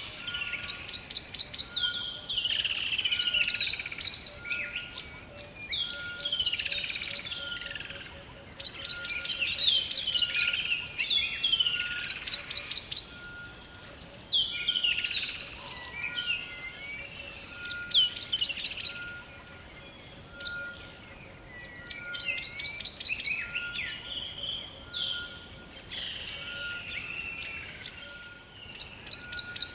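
Several birds singing in a forest chorus: rapid high trills of fast, evenly repeated notes every few seconds, mixed with sweeping whistled phrases, over a short steady note repeated about once a second.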